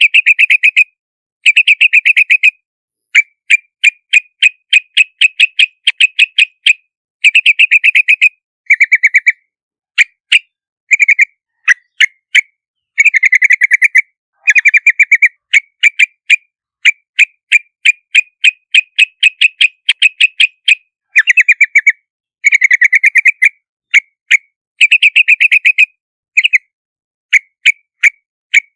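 Yellow-vented bulbul calling: quick runs of short, bubbly chirps, repeated again and again with brief pauses between runs.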